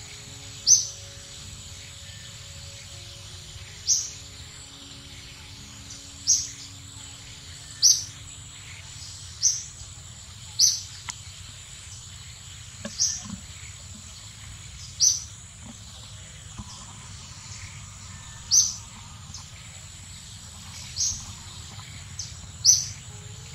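A bird repeating a short, high chirp about eleven times, every one to three seconds, over a steady high insect drone.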